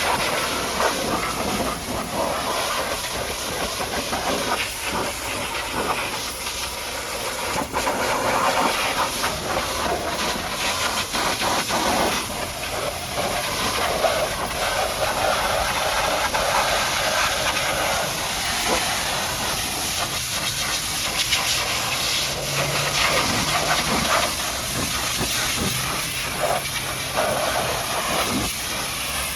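High-pressure washer jet spraying water onto a mud-caked dump truck: a steady hiss of spray that rises and falls a little in level.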